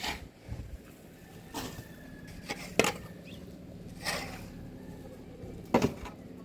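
A series of sharp, irregular knocks, about five in all, the loudest about a third of the way in and near the end, over a faint steady hum.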